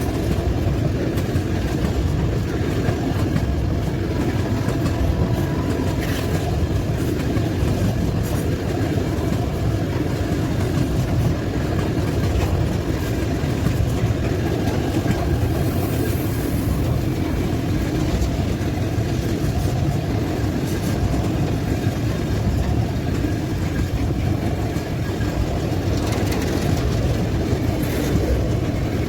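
Freight train of tank cars rolling past, a steady rumble of wheels on the rails.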